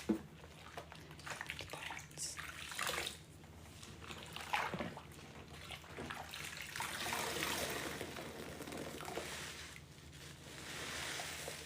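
Water running and splashing into a sink as a soaked sponge is rinsed and squeezed, pouring out in irregular surges.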